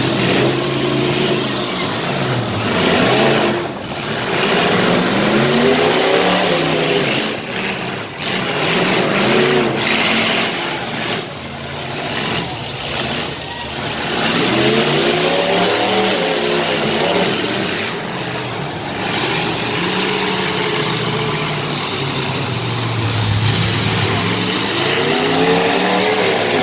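Engines of several full-size demolition derby cars revving hard again and again. Their pitch climbs and drops in repeated surges as the cars drive and push against one another, over a steady wash of engine and exhaust noise.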